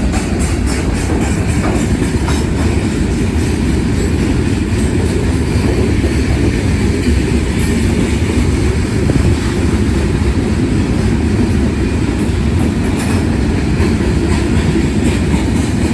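Freight train's cars rolling past at steady speed: a continuous low rumble with wheels clicking over the rail joints.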